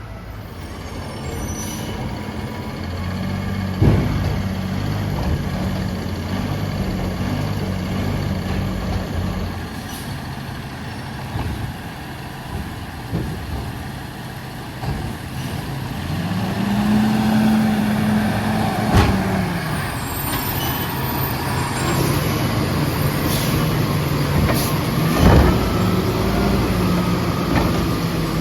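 A Freightliner M2 garbage truck with a Labrie Automizer side-loader running. Its diesel engine hums steadily, rises in pitch for a few seconds past the middle, then drops back. Several sharp bangs come over it, the loudest near the end.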